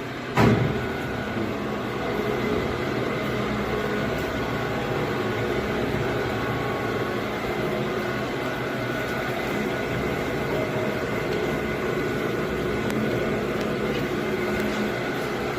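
150-litre ribbon-and-paddle mixer switched on, starting with a sudden clunk about half a second in, then its motor and agitator running with a steady hum.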